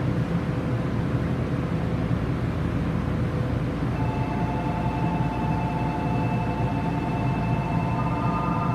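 Toei 6500 series electric train standing at the platform with a steady low rumble. About four seconds in, a chord of held electronic tones starts and runs on, with more tones joining near the end.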